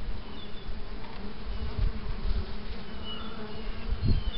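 Honeybees buzzing in flight around their hive, a steady hum.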